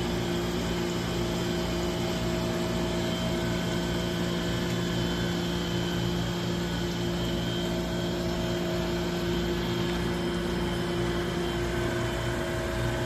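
Rong Feng RF-61NC tool grinder running by itself on its automatic cycle: a steady motor hum with several constant tones.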